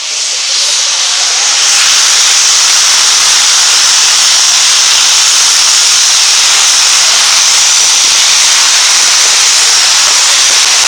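Several hand-held tezutsu tube fireworks burning at once, a loud steady hiss of spraying sparks that builds over the first second or two and then holds.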